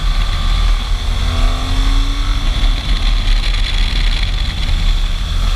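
Wind rumbling on a rider's helmet microphone while a motorcycle is ridden, with the engine faintly heard rising in pitch as it accelerates between about one and two and a half seconds in.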